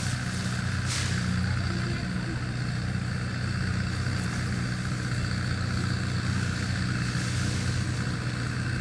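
A small engine running steadily at constant speed, with a low, even hum.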